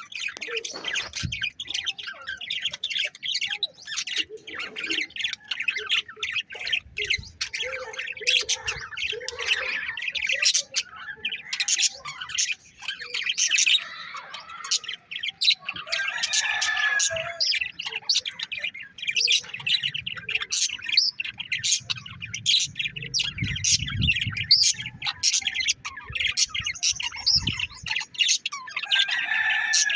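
Many caged pet birds chirping and squawking at once in a dense, unbroken chatter of short high calls, with a low rumble underneath for several seconds about two-thirds of the way through.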